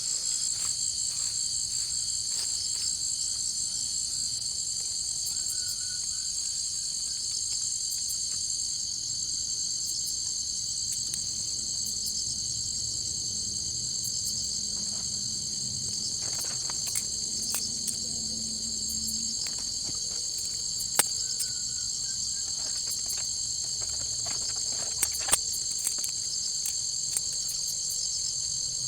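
Steady, shrill chorus of jungle insects such as crickets, with a few sharp clicks or snaps scattered through it, the loudest about 21 and 25 seconds in.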